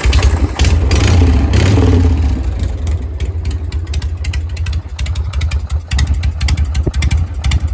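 Harley-Davidson Shovelhead V-twin, just started, running through its newly built exhaust. It runs louder and faster for the first two seconds or so, then settles into an idle with rapid, uneven exhaust pulses.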